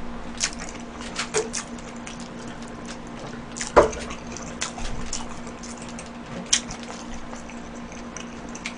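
Close-miked chewing of a mouthful of burger: wet mouth clicks and smacks, with a sharper click a little under four seconds in and another about six and a half seconds in, over a steady low hum.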